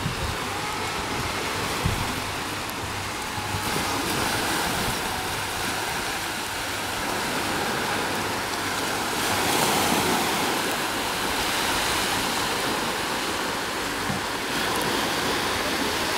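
Jet ski running on open water: a steady rush of water and wind on the microphone, with a faint engine whine that wavers up and down.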